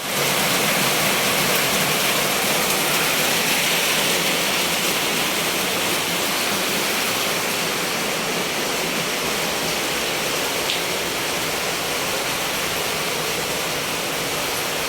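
Steady rushing water, an even noise that holds level throughout.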